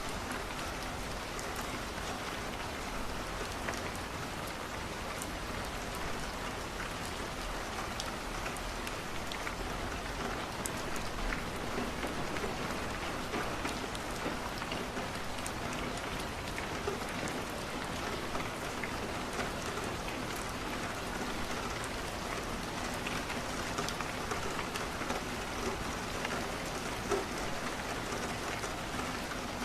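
Steady rain falling against a window: an even hiss with many small scattered ticks of drops.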